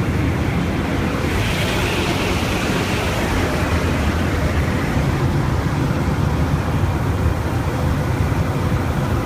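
Steady noise of an aircraft in operation, its engine and rushing air merged into one even roar, with a higher hiss swelling from about one to four seconds in.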